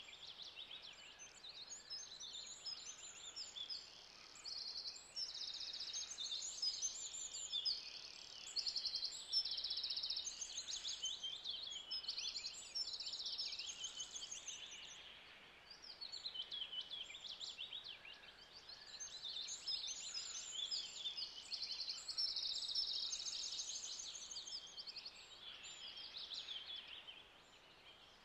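Birds chirping and singing, with many high calls and rapid trills overlapping and coming and going; they fall quieter shortly before the end.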